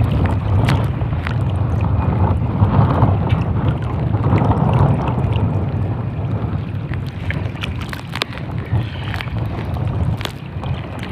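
Strong wind buffeting the microphone, a dense uneven rumble, with scattered sharp clicks and knocks.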